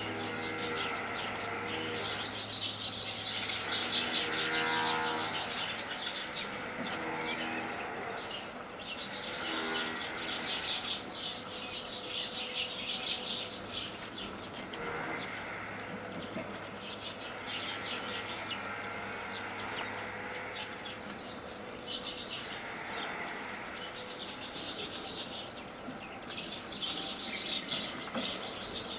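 Many small birds chirping and twittering at once, almost without a break.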